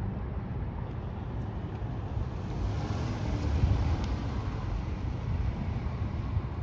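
Road traffic: a vehicle passing by, its noise swelling to a peak about three and a half seconds in and easing off, over a steady low rumble.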